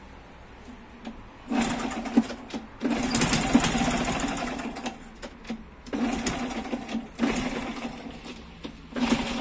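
Small scrap motorcycle engine being turned over in start attempts, in about five bursts of one to two seconds each, each with a fast, even mechanical chatter.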